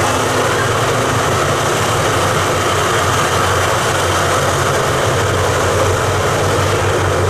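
Steady, loud train noise: a low engine hum under an even rushing noise that does not change.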